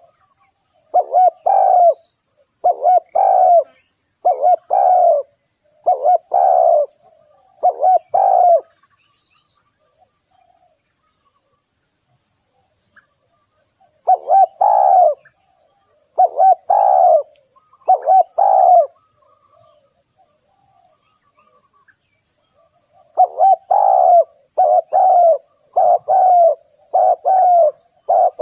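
Spotted dove cooing: loud repeated coo phrases in three bouts, with pauses of several seconds between them.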